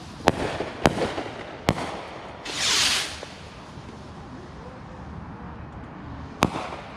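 Consumer fireworks going off: three sharp bangs in the first two seconds, a hissing burst about two and a half seconds in, and another sharp bang near the end.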